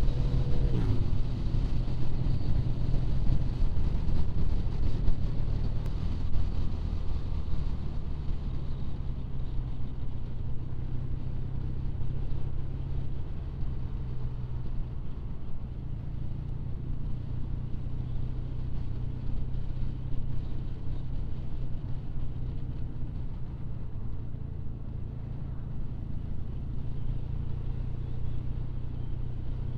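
Triumph Bonneville's parallel-twin motorcycle engine running steadily while riding, with a constant drone of road noise. The engine note falls briefly right at the start.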